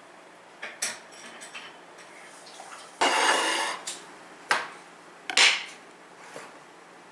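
Household objects being handled and set down on a hard surface: a few sharp clicks and knocks, and a rough scraping noise lasting about a second, starting about three seconds in.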